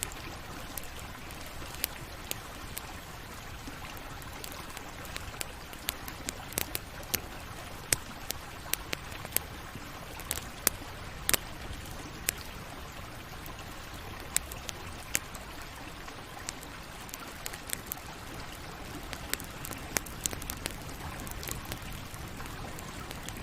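Campfire burning: a steady low rush of flame with frequent sharp, irregular crackles and pops.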